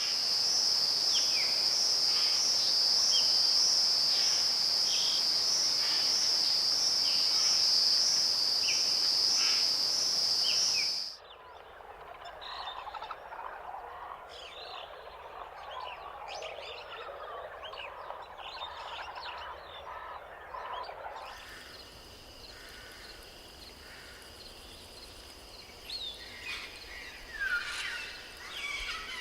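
Rainforest wildlife ambience with clear cuts between recordings. First comes a loud, high, steady pulsing buzz with scattered chirps. About eleven seconds in it cuts suddenly to a quieter dense chorus of chirping animal calls. About ten seconds later it cuts again to a fainter high steady buzz, with bird calls near the end.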